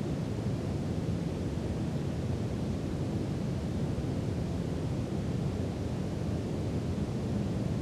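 Steady brown noise: a constant deep rumbling hiss, heaviest in the low end, with no changes or events.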